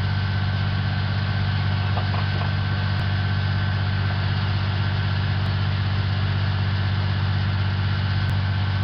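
Heavy V12 diesel engine of an M88A2 armoured recovery vehicle running at a steady speed: a deep, even drone that holds constant.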